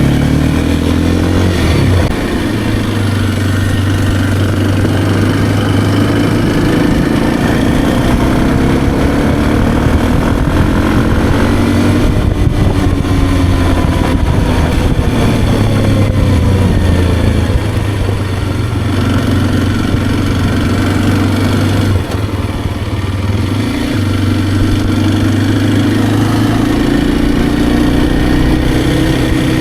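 Kawasaki KLX230R dirt bike's single-cylinder four-stroke engine running under way, its note rising and falling as the throttle opens and closes, with brief dips about two seconds in and about two-thirds of the way through.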